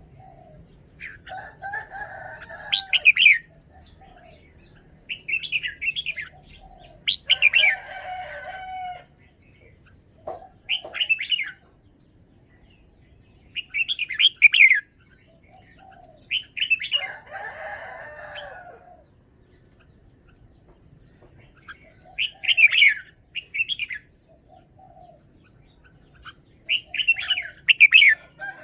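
Red-whiskered bulbul singing loud, short, warbling phrases of quick sweeping notes, about eight phrases with pauses of one to four seconds between them.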